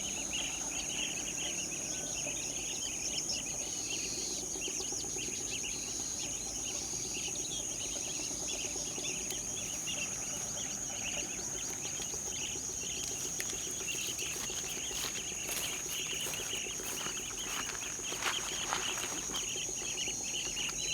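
Many small birds chirping over a steady high-pitched insect drone, with scattered sharp ticks in the second half.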